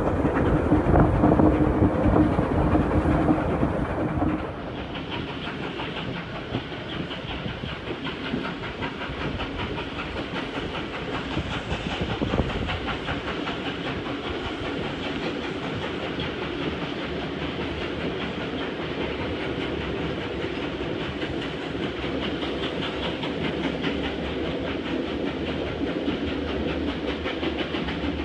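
Steam-hauled passenger train rolling along the track, with the steady rumble and clack of the carriage wheels on the rails heard from a carriage window. It is louder, with a steady tone over it, for the first four seconds, then drops suddenly to a quieter, even rumble.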